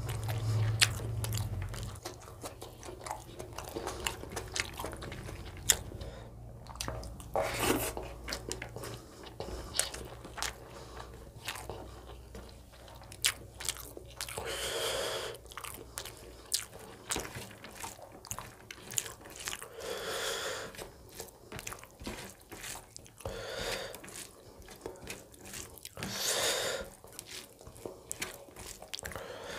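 Close-miked chewing of rice and chicken curry eaten by hand, with many small wet clicks and smacks of the mouth and a few louder, longer mouth noises.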